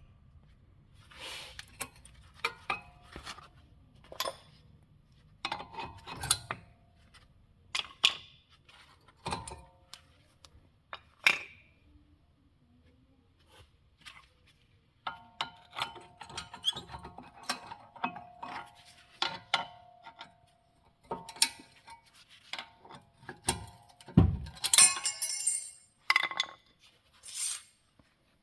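Metal tools and brake parts clinking, tapping and knocking in a string of separate strikes, some ringing briefly, with a heavier thunk near the end.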